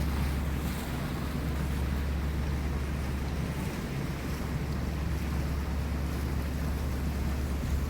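Lake passenger boat underway: a steady low engine drone with water rushing past the hull and wind on the microphone.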